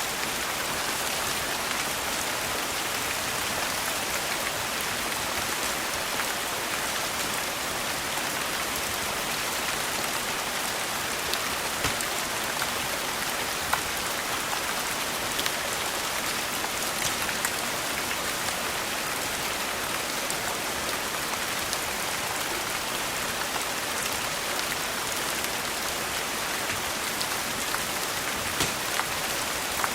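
Steady rain falling on a surface, with scattered sharp clicks and small pops throughout.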